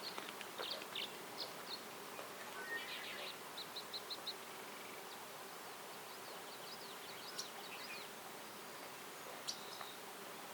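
Small birds chirping with short high calls, including a quick run of evenly spaced notes about four seconds in, over a steady faint background hum and hiss of the forest.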